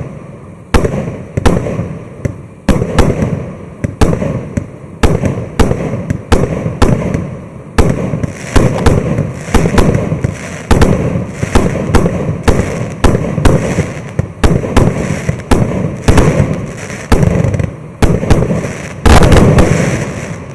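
Maxsem SB-120-01 consumer fireworks battery (cake) firing shot after shot: a sharp bang every half second to a second, each trailing off in a rumble. About a second before the end comes a longer, louder run of bursts.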